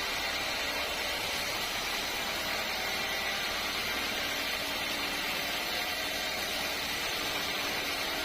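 Sawmill machinery running steadily: an even, hissy noise with a faint hum and no separate strikes or breaks.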